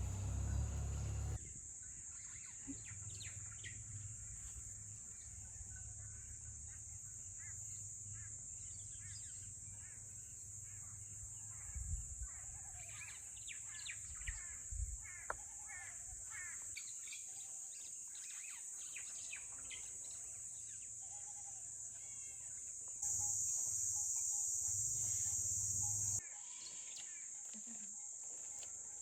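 Rural outdoor ambience: a steady high-pitched insect drone with birds chirping and calling throughout. The insect drone swells louder for about three seconds near the end.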